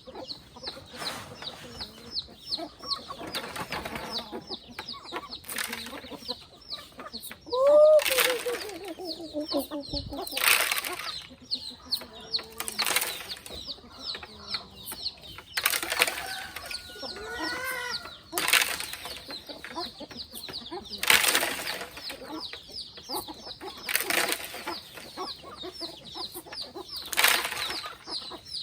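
Chickens clucking, with one loud falling squawk about eight seconds in, over a steady fast high-pitched chirping. Short flurries of noise come every two to three seconds.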